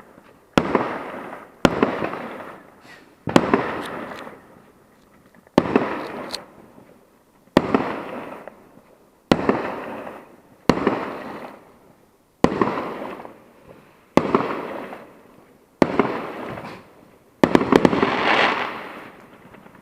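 Fireworks going off in a steady series: a sharp bang every one to two seconds, each trailing away in crackle and echo. A denser crackling burst comes near the end.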